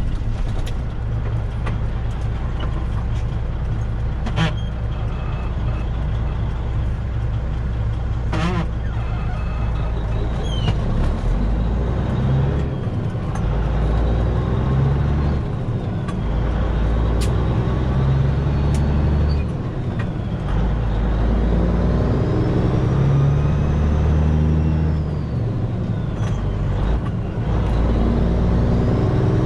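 Semi truck's diesel engine running under way, with a steady low drone and an engine note that shifts in steps several times through the second half.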